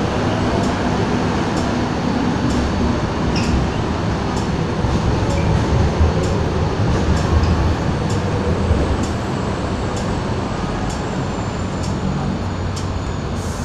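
MTR Kwun Tong line electric train moving through the station, a steady rumble that swells in the middle and eases off, with light ticks recurring throughout.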